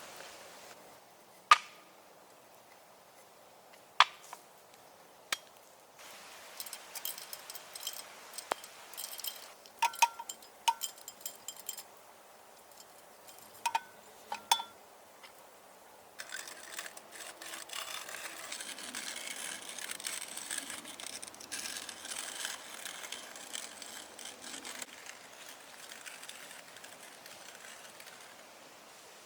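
Three sharp knocks, then scattered light clinks, then a steady hiss from about halfway through that fades away near the end.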